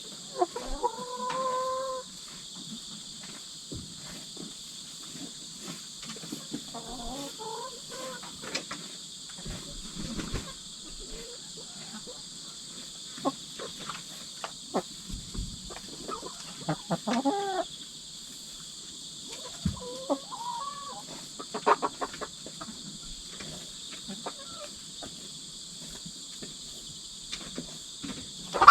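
Domestic hens giving short clucks and calls now and then, with scattered light taps and scratches, over a steady high chorus of crickets.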